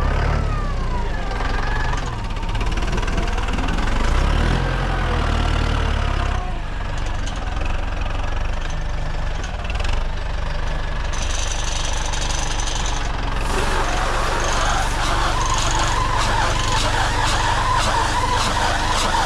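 Tractor engine running steadily under work. About two-thirds of the way through, a busier rattling and squealing machinery noise joins it.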